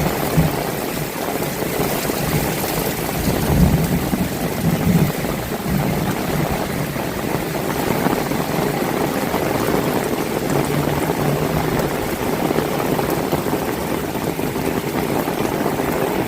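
Heavy rain falling steadily, an even hiss of rainfall. Low rumbling swells come through about three to five seconds in and again around ten seconds.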